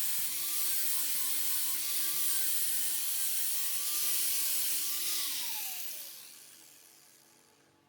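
Electric angle grinder grinding steel: a motor whine that wavers under load over a loud hiss. About five seconds in it is switched off, and the whine and hiss wind down together in falling pitch.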